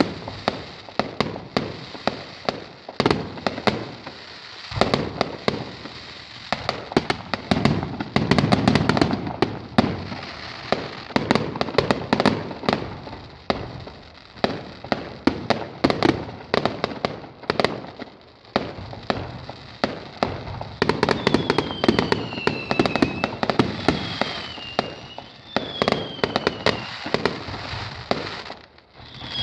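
Fireworks going off in quick succession: dense crackling and popping mixed with heavier bangs. In the latter part come several short falling whistles, then a brief lull just before the end.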